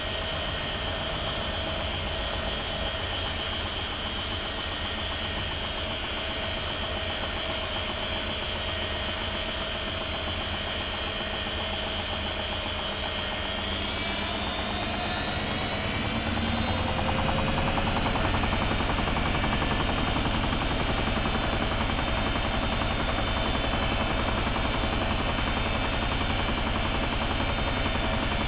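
Privileg 370 S washing machine spinning: about halfway through, its motor whine rises as the drum speeds up, then holds steady at a higher, louder speed.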